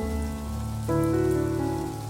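Steady rain with scattered drop ticks, under soft instrumental music of held notes whose chord changes about halfway through.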